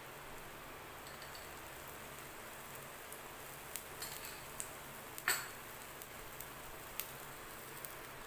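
Cheela batter frying in oil on a hot tawa: a steady soft sizzle with scattered crackling pops, the loudest about five seconds in.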